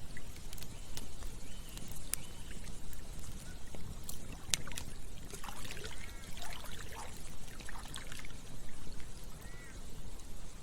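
Campfire crackling with scattered sharp pops over the steady rush of flowing water. A cluster of short animal calls comes about halfway through, and one more near the end.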